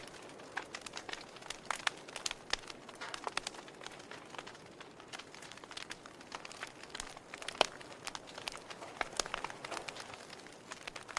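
Wood fire crackling: a soft hiss of burning with a dense, irregular run of sharp pops and snaps, one louder pop about seven and a half seconds in.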